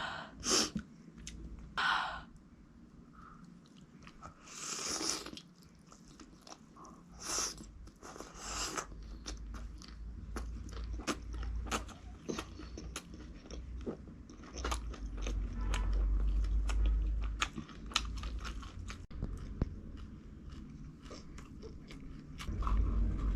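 A person eating close to the microphone: several loud crunchy bites in the first nine seconds, then steady chewing with many small wet mouth clicks.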